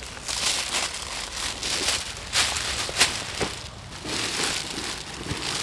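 Bedding being handled and spread out, crinkling and rustling in irregular bursts with a few sharper crackles.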